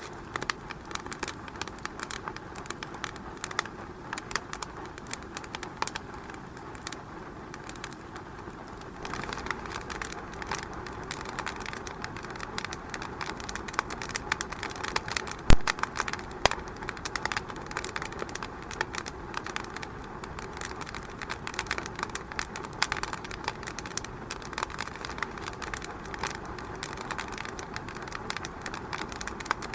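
Wood fire crackling in a fireplace: a steady hiss with frequent small pops and snaps, and one sharp, louder pop about halfway through.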